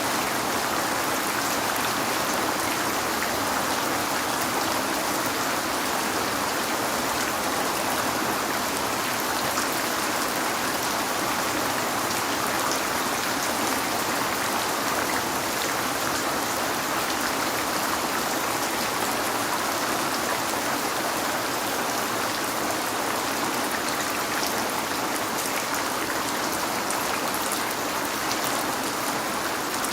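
Steady rain falling on a window, an even hiss with scattered small drop taps.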